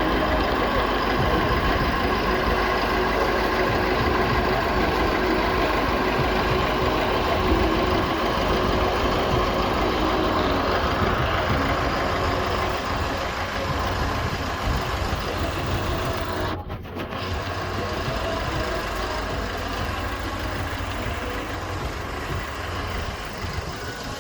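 Engine of a self-loading concrete mixer running steadily, cut off for a moment about two-thirds through and then going on a little quieter.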